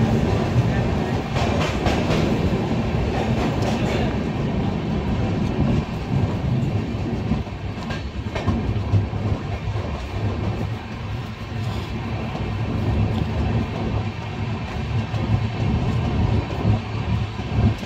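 Passenger train coach running slowly out of a station, heard from inside at the open door: a steady rumble of wheels on rail with irregular clacks as the wheels cross rail joints.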